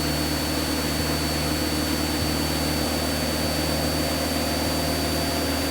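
Light piston aircraft engine and propeller droning steadily in cruise, heard from inside the cockpit, with a thin steady high whine over the drone.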